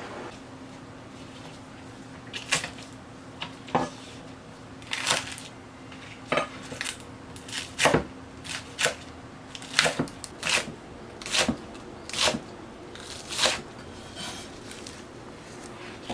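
Dishes and kitchen utensils clinking and knocking as they are handled, a dozen or more short, sharp strikes at irregular intervals.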